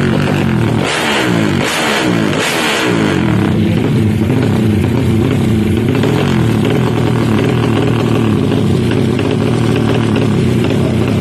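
Drag-race motorcycle engine running steadily, with three quick loud revs about a second in.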